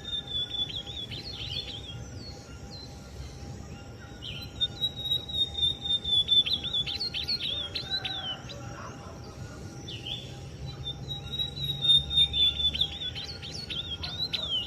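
Azulão (ultramarine grosbeak) singing three song phrases a few seconds apart. Each phrase is a high held note that breaks into quick rising and falling notes.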